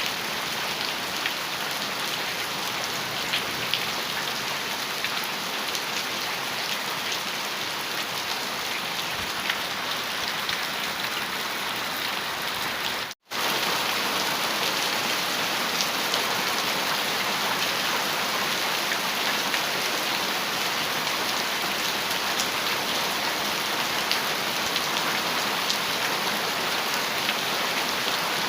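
Heavy rain falling steadily on a metal roof, a dense even hiss with scattered sharper drop ticks. The sound drops out completely for an instant about thirteen seconds in, then comes back a little louder.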